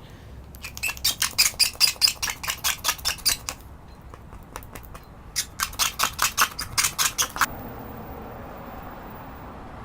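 Razor blade scraping cured resin off the glass in quick back-and-forth strokes, about six or seven a second, in two runs: a longer one near the start and a shorter one a couple of seconds later.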